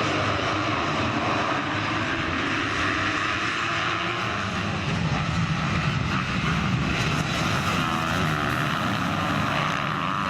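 Motocross motorcycle engines running on the track, with a continuous engine drone whose pitch wavers up and down as the bikes rev.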